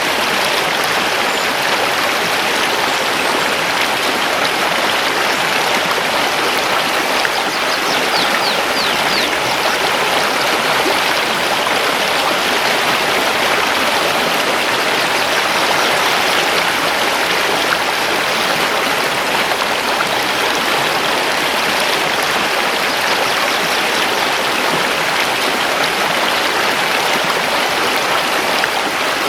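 Mountain river rushing over stones, a steady, full water noise. A few faint, high bird notes come through briefly about eight seconds in.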